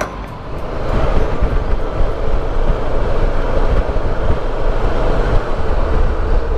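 Motorcycle under way: engine rumble and rushing wind noise, building over the first second as the bike gets up to speed, then holding steady.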